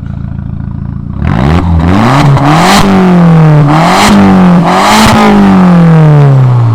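2002 Volkswagen Jetta's 1.8T turbocharged four-cylinder, straight-piped from the center console back with the two catalytic converters still on the turbo, going from idle to a sharp rev about a second in. It is blipped up three times with dips between, then falls slowly back toward idle near the end.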